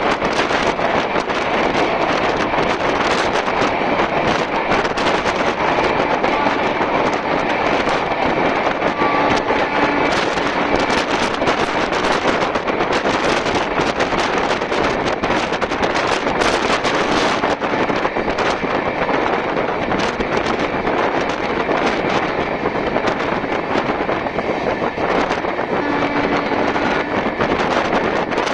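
Express train running at speed, heard at its window: a steady rush of wind and rolling rail noise.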